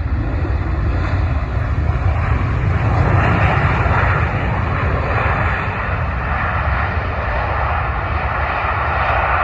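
Ryanair Boeing 737 MAX's CFM LEAP-1B turbofan engines passing on the landing approach: a steady rushing jet noise over a deep rumble, loudest about three to four seconds in.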